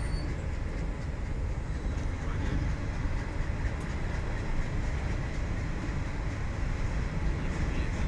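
Train running over a railway bridge: a steady low rolling noise of wheels on the rails.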